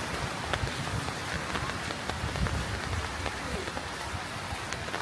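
Steady heavy rain falling on surfaces, with scattered sharp drops hitting close by.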